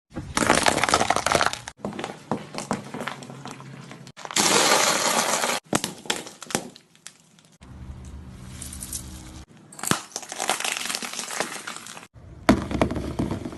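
Slime being squeezed and worked by hand, crackling and clicking with crinkly pops, in several short clips cut together abruptly.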